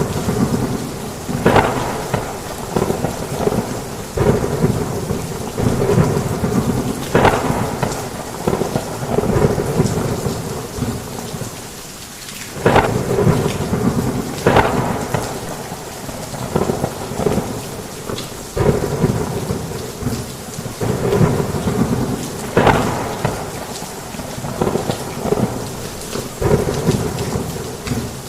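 Heavy rain pouring on a roof during a thunderstorm, with thunder rumbling under the downpour and sudden sharp cracks every few seconds.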